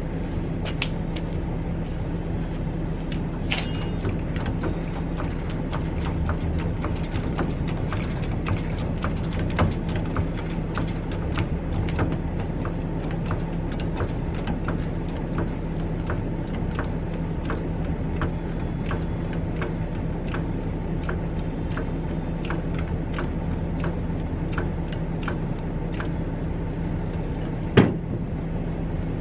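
A steady low mechanical hum with many small scattered clicks and knocks, and one sharper knock near the end.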